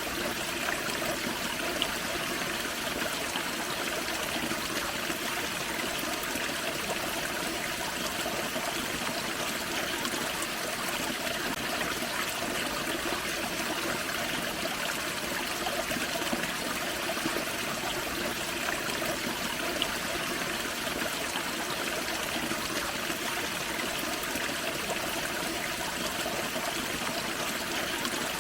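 Forest creek spilling over a small waterfall: a steady, even rush and trickle of running water.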